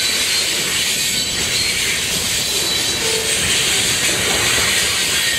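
Covered hopper cars of a Canadian Pacific freight train rolling past, giving a steady noise of steel wheels on the rails with a hissing high end and faint thin squeals.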